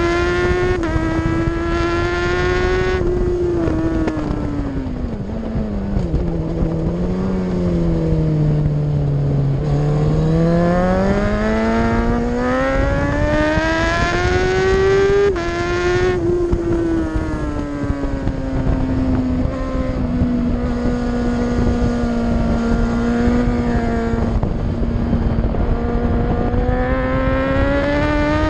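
Racing superbike engine heard onboard at high revs. It falls in pitch for about four seconds as the bike slows for a corner, then climbs back as it accelerates out. A quick drop in pitch about fifteen seconds in marks a gear change, and after that it holds fairly steady at speed.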